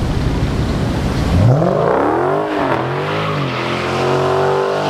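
Car engine rumbling low, then revving hard about a second and a half in, its pitch climbing and falling several times.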